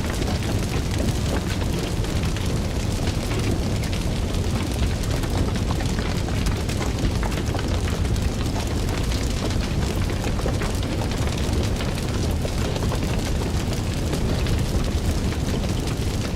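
Fire crackling steadily, with constant small pops and snaps over a low rumble of burning.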